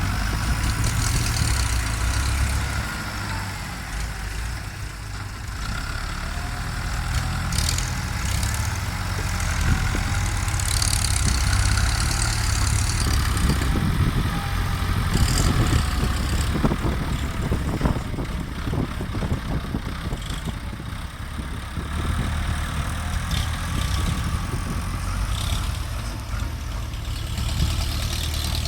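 Ford farm tractor engines running steadily while working, a continuous low rumble with scattered short knocks and scrapes over it.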